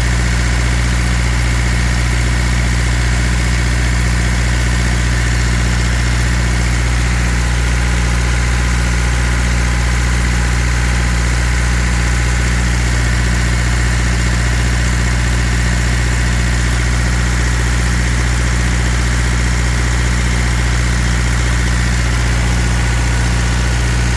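Water truck's engine idling steadily, a constant low drone with no change in pitch or loudness.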